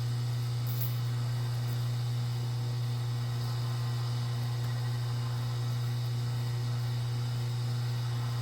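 A steady low hum at constant loudness throughout, over a faint background hiss.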